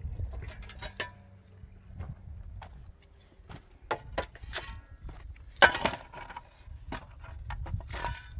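Objects being handled: a string of clicks and knocks, some with a short ringing clink. The loudest knock comes a little past halfway.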